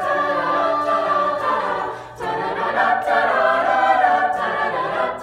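A cappella choir singing held chords with no clear words, with a short break about two seconds in.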